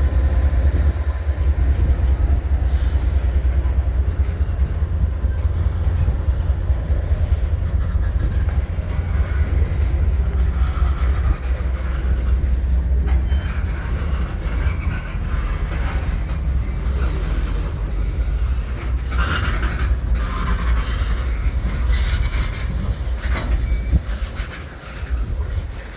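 Freight train rolling past with a heavy, steady low rumble of cars on the rails, and sharper wheel clatter in the second half.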